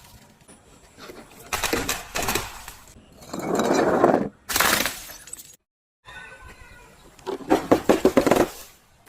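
Glass being crushed and shattered in a series of separate crunching, crackling breaks, about four in all. The sound drops to dead silence for half a second just past the middle.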